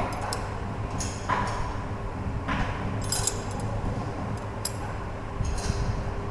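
Metal tools and parts clinking and tapping, about half a dozen short, ringing strikes, over a steady low hum.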